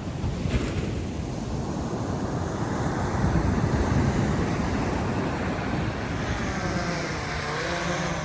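Surf breaking on the beach with wind buffeting the microphone. Near the end, a motor hum comes in, wavering up and down in pitch.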